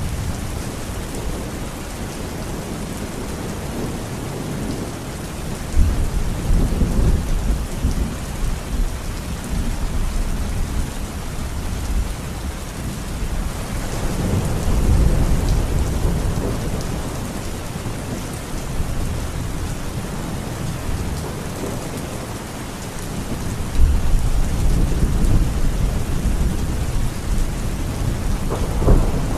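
Steady rain falling in a thunderstorm, with low rolls of thunder rumbling several times: a sudden clap about six seconds in, a slower swell around the middle, another sudden clap about two-thirds of the way through, and a sharp crack just before the end.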